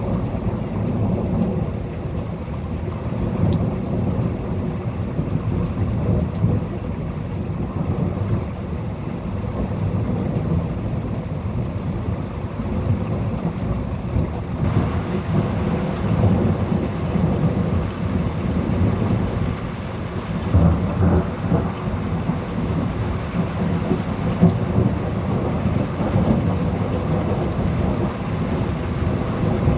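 Thunderstorm: steady rain with low rolls of thunder, a stronger rumble about two-thirds of the way through.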